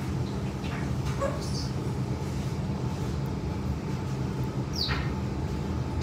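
A bird chirping faintly a few times, with one falling chirp near the end, over a steady low hum.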